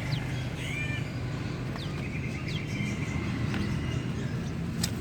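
Birds chirping and calling: several short falling chirps and a few held whistled notes, over a steady low rumble. A sharp click comes near the end.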